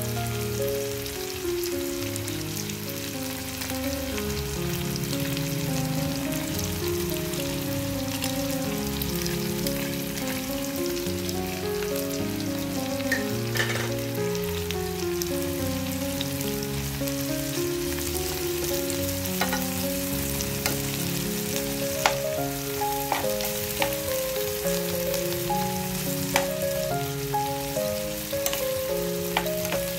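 Chopped onion, garlic and chicken pieces sizzling in hot oil in a metal pan, with a few sharp clicks of a spatula against the pan, most of them in the second half. A background music melody plays along with it.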